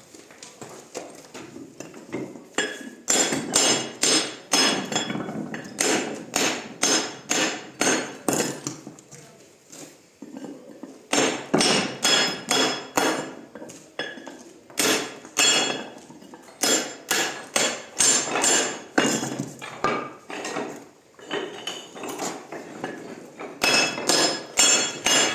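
Hammer blows on stone, about two sharp, ringing strikes a second, in runs with short pauses between them, typical of working rock-face cladding stone.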